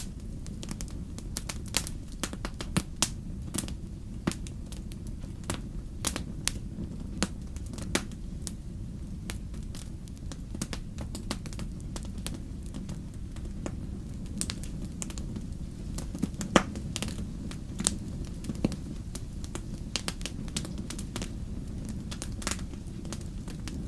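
Wood fire burning in a fireplace: irregular sharp crackles and pops over a steady low rumble of the flames, with one louder pop a little past the middle.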